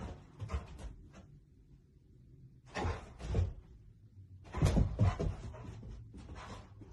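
A series of thuds and rattling knocks, the loudest clusters about three seconds in and about five seconds in.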